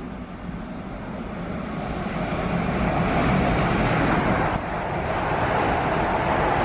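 A train running through the station, its rushing noise building over the first few seconds and staying loud.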